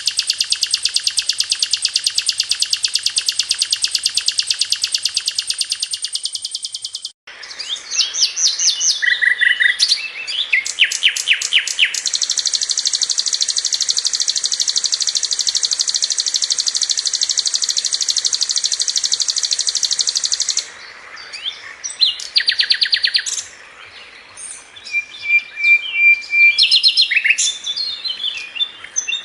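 Sikatan londo flycatcher singing: a dense, very fast high trill that breaks off abruptly about seven seconds in, followed by a string of varied short chirps and quick sweeping notes, then another long rapid trill and more scattered chirps near the end.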